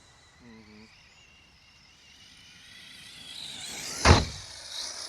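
RC truck going off a jump: its motor whine builds as it runs at the ramp and is in the air, then one hard thud as it lands about four seconds in.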